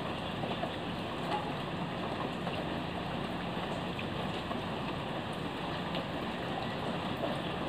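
Fairly heavy rain falling steadily, an even hiss with scattered drops ticking on nearby surfaces, over a faint low steady hum.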